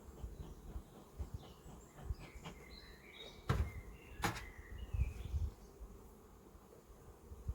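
Honeybees buzzing around an open hive during a colony inspection, with two sharp clicks a little under a second apart midway and some short high chirps.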